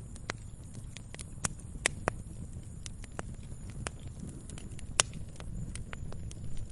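Wood bonfire crackling: irregular sharp snaps and pops over a low steady rumble, with the loudest pop about five seconds in.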